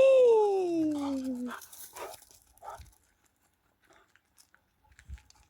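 A long drawn-out call sliding down in pitch for about a second and a half, then faint crunching and clicking as a dog chews on something.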